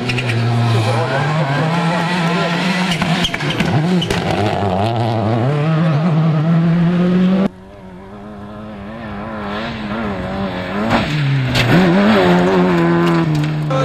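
Rally car engines at full throttle, their pitch climbing and dropping with each gear change. About halfway through, the sound cuts abruptly to another rally car heard from farther off, growing steadily louder as it comes closer.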